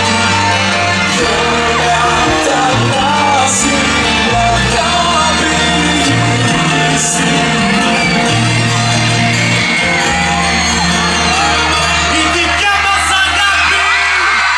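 Live pop band playing loudly to a crowd, with singing and shouts and whoops from the audience, which grow near the end.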